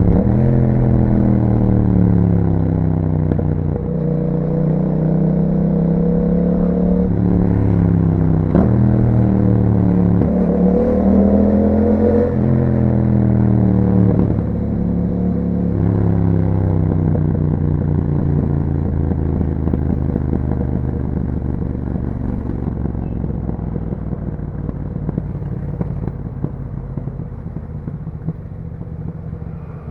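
2021 Yamaha MT-07's parallel-twin engine through an Akrapovic exhaust, pulling up through several gears: the pitch climbs and drops back at each upshift, with a sharp click about eight and a half seconds in. After that it holds a steadier note and grows quieter over the last ten seconds or so.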